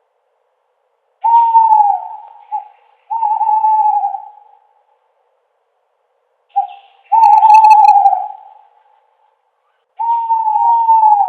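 Owl hooting: four long, wavering hoots that slide slightly down in pitch, two of them led by a short note, with silent gaps between.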